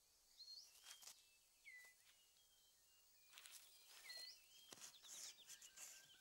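Faint forest sounds: short whistled bird calls that glide and bend, over scattered rustles and light ticks of leaf litter being moved as a six-plumed bird of paradise clears its display ground. The rustling thickens in the second half.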